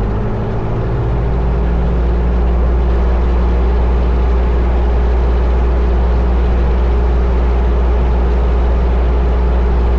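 Cessna 172 Skyhawk's four-cylinder Lycoming piston engine running steadily at low power on the ground, heard from inside the cockpit. The engine note shifts slightly about a second in, then holds even.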